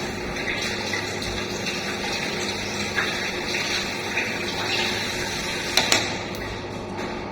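Water running steadily in a washroom, an even rush, with a couple of small knocks near the end.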